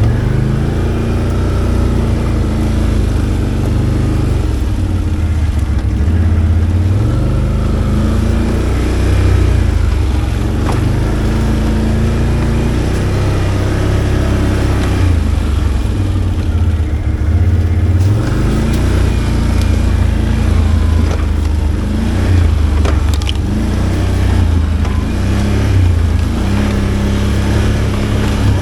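ATV engine running under varying throttle on a slow trail ride, its revs rising and falling every few seconds.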